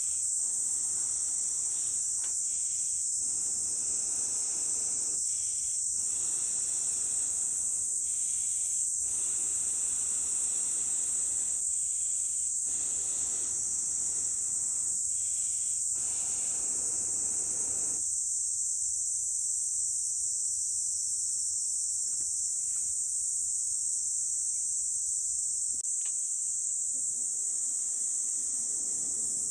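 A steady, high-pitched insect chorus throughout, over a repeated rush of air from long blows through a fire-blowing pipe into a campfire, each blow lasting two to three seconds with a short pause for breath; the blowing stops about two-thirds of the way in, leaving the insects and a few faint crackles.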